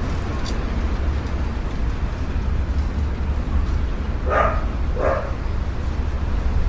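A dog barking twice, short separate barks about four and five seconds in, over a steady low rumble.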